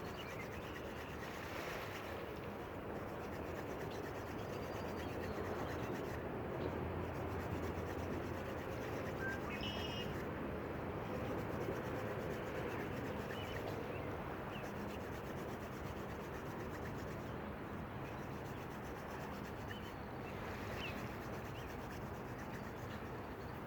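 Wooden hand-drill spindle spun between the palms against a wooden hearth board, a steady dry rubbing of wood on wood while drilling for a friction-fire ember.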